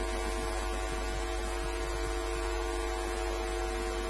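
Steady electrical hum with an even background hiss, unchanging throughout.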